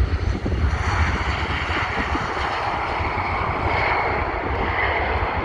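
Airliner engines running, a steady loud rush of noise with a heavy low rumble and a faint high whine.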